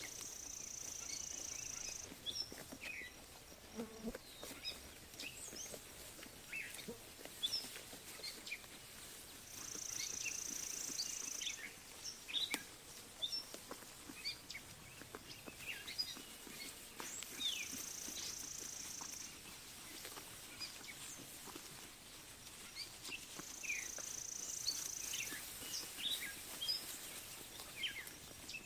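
Pasture ambience of birds chirping, with many short scattered calls and a high buzzing trill about two seconds long that comes four times, roughly every seven seconds.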